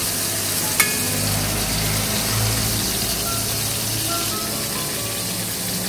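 Round eggplant slices shallow-frying in oil in a pan, a steady sizzle. A sharp click comes about a second in, and a low hum sits under the sizzle for a couple of seconds.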